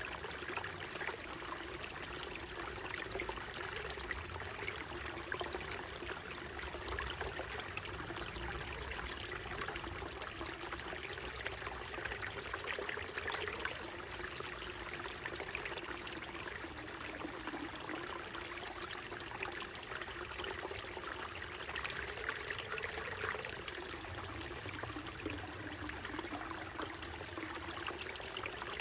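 Small mountain stream flowing and trickling over rocks, a steady babble of water.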